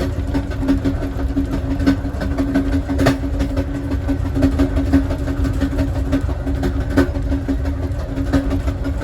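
Amtrak passenger car of the Southwest Chief rolling along the track, heard from inside the last car: a steady low rumble of wheels on rail with a steady hum and scattered clicks and knocks, the loudest about three seconds in and again near seven seconds.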